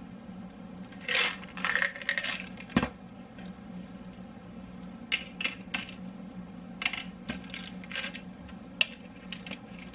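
Pills and capsules clattering into a pill organizer: a rattly run of small hard clicks about a second in, then scattered single clicks.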